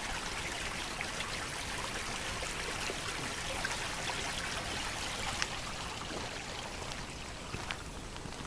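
Running water of a small stream, a steady rush. A few faint clicks in the second half.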